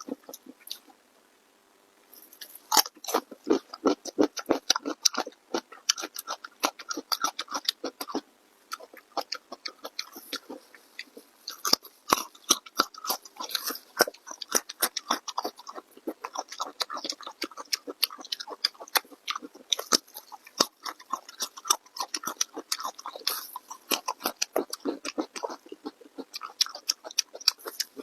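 Close-miked chewing and biting of food: dense runs of quick, crunchy clicks, with a short pause about a second in before the chewing resumes.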